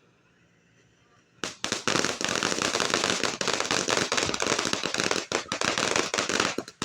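Consumer fireworks going off: a dense, rapid crackle of sharp bangs that starts about a second and a half in and stops abruptly near the end.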